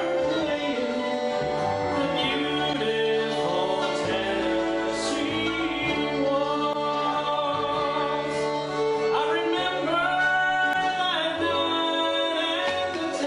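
Bluegrass combo playing live: fiddle, guitar, harmonica, double bass and mandolin or banjo, with a sustained, sliding melody line over steady accompaniment.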